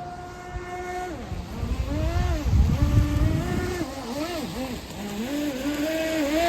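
RC speedboat's electric motor running on a 4S battery, a whine that holds steady for about a second and then dips and rises again and again as the throttle is worked, with a rush of noise around the middle as the boat speeds up.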